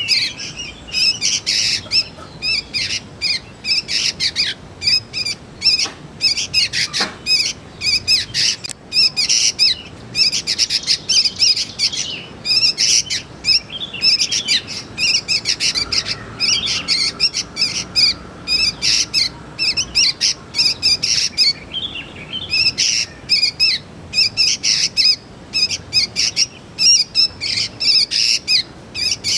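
Young sooty-headed bulbuls calling: a dense run of short, high, irregular chirps, several a second.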